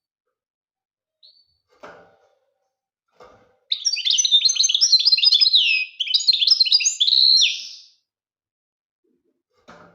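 European goldfinch singing: one rapid, twittering phrase of about four seconds, with a brief break partway through. A few faint short sounds come before and after it.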